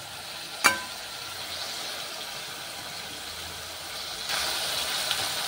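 Ground masala and mushrooms frying in a metal kadhai, a steady sizzle that grows louder and brighter about four seconds in. One sharp metal clink of the spatula against the pan less than a second in.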